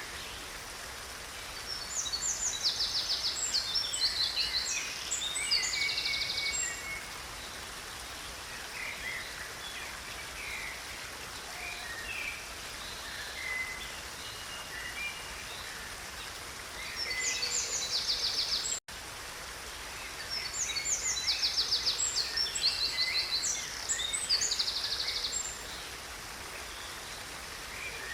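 Running stream water, a steady rush, with songbirds singing over it: two long bouts of fast, high trilling song, the first about two seconds in and the second just after a brief dropout in the sound about two-thirds of the way through, with scattered shorter chirps between.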